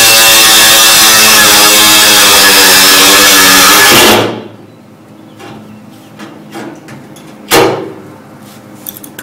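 A power cutting tool is running at full speed, cutting the corners of tail-light slots in a car's sheet-metal rear panel: a loud hissing whine that stops abruptly about four seconds in. Light clicks and handling follow, with a sharp knock about three seconds later.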